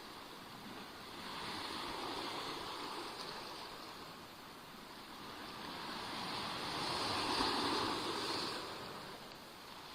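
Sea waves lapping and splashing onto the shore in two washes: one builds about a second in, and a louder one swells and falls away in the latter half.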